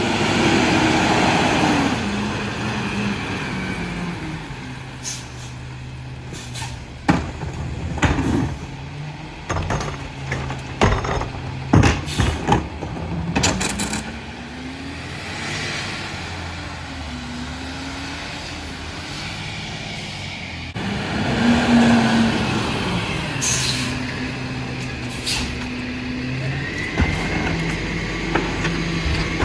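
Freightliner M2 McNeilus rear loader garbage truck working a route: the diesel engine runs throughout, its speed rising and falling several times, with a run of sharp bangs and clatters in the first half and a few short hisses later on.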